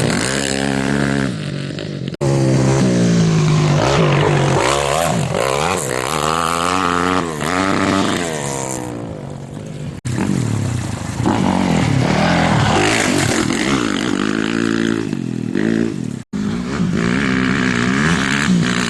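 Off-road racing motorcycles revving hard and passing by, their engine pitch repeatedly rising and falling through gear changes. The sound cuts off abruptly three times as one shot gives way to the next.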